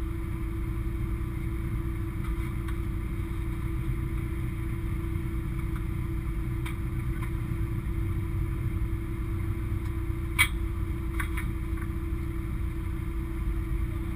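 Race car engine idling steadily, heard from inside the stripped-out cabin, with a few short sharp knocks, the loudest about ten seconds in.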